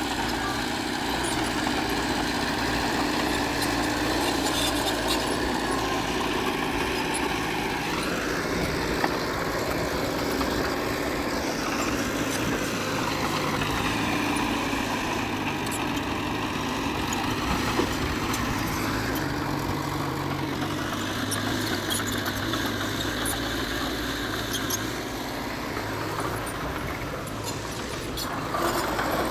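Diesel engine of a Komatsu D20P bulldozer running steadily while it works, its pitch shifting up and down a few times as the load changes.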